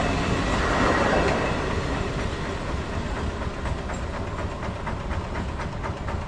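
Electric multiple-unit (EMU) local train running past and pulling away, its rumble fading. Its wheels click rapidly and evenly over the rail joints, and the clicking stands out more as the noise dies down.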